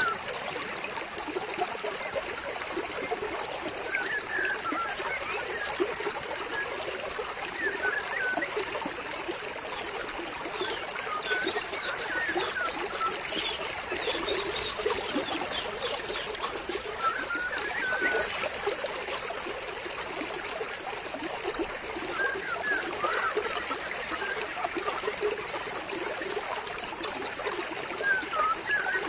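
Stream water flowing and trickling steadily, with short bird chirps every few seconds.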